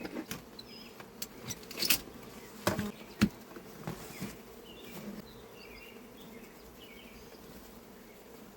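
Honeybees buzzing steadily around an open hive, with a few sharp knocks and clicks in the first three seconds or so.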